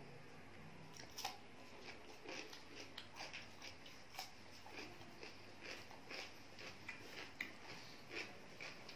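Close-up chewing: irregular wet mouth clicks and smacks, a few a second, starting about a second in.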